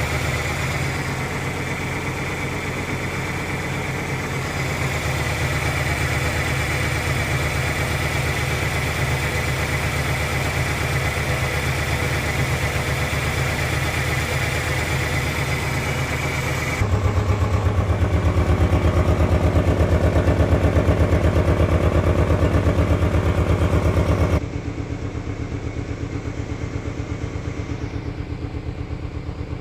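1997 Ford Ranger engine idling roughly with a rapid pulsing beat, a rough idle that a new fuel pump has not cured. About halfway through the sound turns louder and deeper, then abruptly duller and quieter a few seconds before the end.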